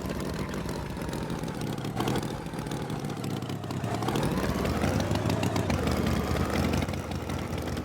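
Tractor engine running steadily, its pitch rising and falling once about halfway through.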